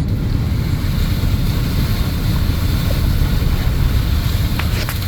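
A vehicle driving through deep floodwater: the engine's steady low rumble under a constant rush of water churning and splashing against the vehicle. Two brief knocks come near the end.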